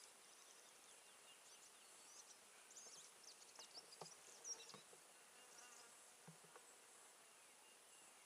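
Faint buzzing of honey bees around an open hive, with single bees whining past close by, their pitch rising and falling. A few soft knocks come in the middle.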